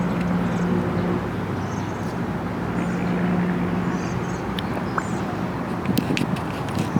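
Steady outdoor noise with a low engine hum that comes and goes, and a few faint high chirps.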